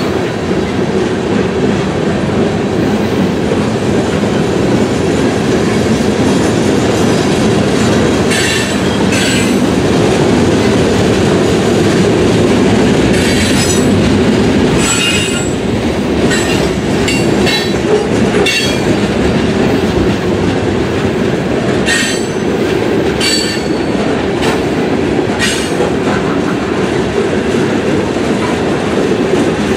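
Freight train cars rolling past: a steady, loud noise of steel wheels on the rails, with several brief high-pitched wheel squeals.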